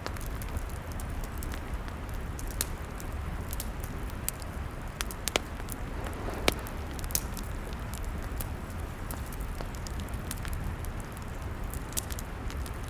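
Log fire burning: a steady low rumble of flames with irregular sharp crackles and pops from the wood, two louder pops near the middle.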